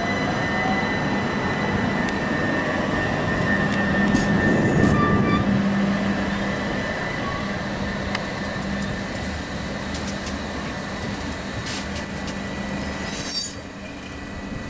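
Class 357 electric multiple unit moving through the station: a steady electric motor whine over the rumble of wheels on rail, loudest about four to five seconds in. Near the end, a few short high-pitched squeals as a 357 draws into the platform.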